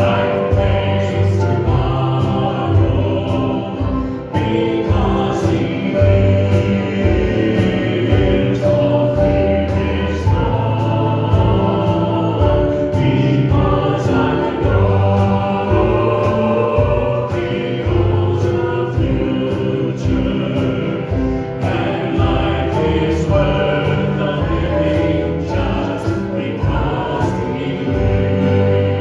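Gospel-style music with choir singing over a steady beat.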